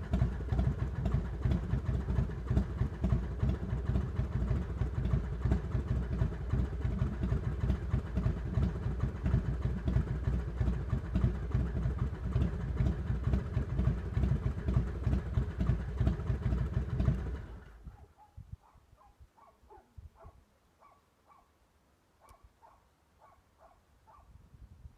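2002 Harley-Davidson Heritage Softail Classic's carburetted 95-cubic-inch Screamin' Eagle V-twin running at idle through Vance & Hines exhaust pipes, with an uneven beat. About 17 seconds in, the engine is switched off and stops abruptly, leaving only faint, evenly repeated short pips.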